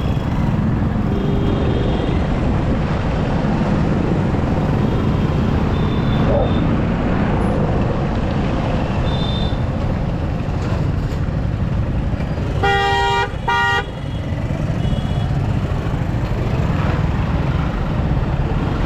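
Steady road and wind rush from a moving motorcycle in traffic, with a vehicle horn honking twice in quick succession about two-thirds of the way through and faint distant horns earlier.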